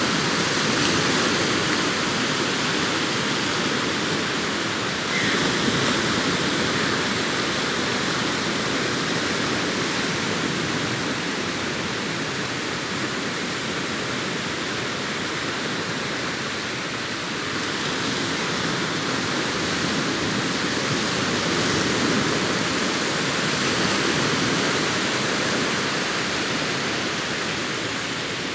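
Arabian Sea waves breaking continuously on the shore: a steady rushing surf that swells and eases slowly, a little louder about five seconds in.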